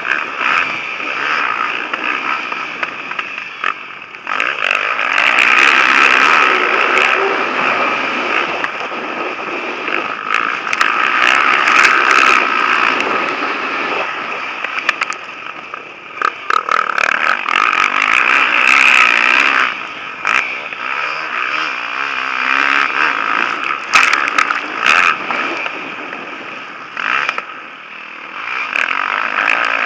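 Several motocross bikes racing on the track, their engines revving hard and falling away as they pass, with the sound swelling several times.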